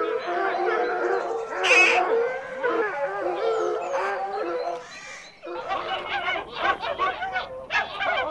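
Several canines howling together in overlapping long, wavering calls, with a few higher yelps. About five and a half seconds in, this gives way to a flock of geese honking in quick, repeated calls.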